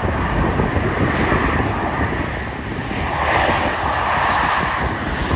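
Airliner's jet engines passing, a loud rushing noise that swells about three seconds in.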